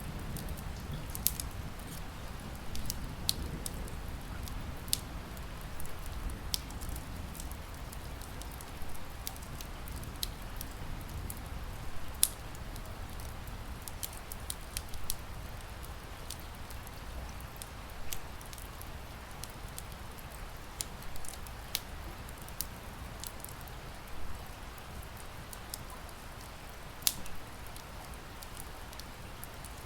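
Wood fire crackling, with irregular sharp pops, over a steady hiss of rain; a low rumble at the start dies away over the first few seconds.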